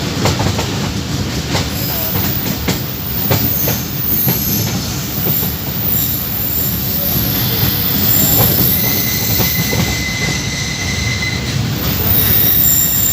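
A passenger train running at speed, heard on board. Wheels rumble steadily on the rails, with scattered sharp clicks as they cross rail joints. High-pitched wheel squeal comes and goes throughout, with a steadier mid-high whine from about the middle to near the end.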